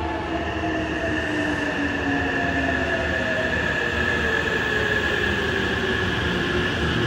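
Hankyu 9000 series electric train pulling in and braking: a whine that falls in pitch as it slows, a steady high squeal, and the rumble of the wheels on the rails.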